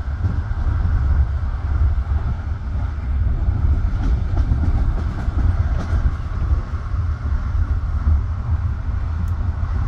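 Passenger train carriage running on the rails, a steady low rumble of wheels and bogies heard from inside the car, with a few faint clicks.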